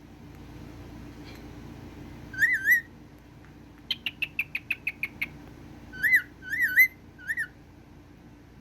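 Cockatiel whistling. One short warbling whistle, then a quick run of about ten chirps, then three more warbling whistles near the end.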